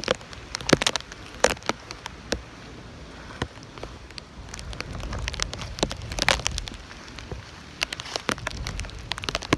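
Rain during a tropical storm: irregular sharp taps of raindrops hitting close to the microphone, over a low rumble of wind on the microphone that swells in the middle.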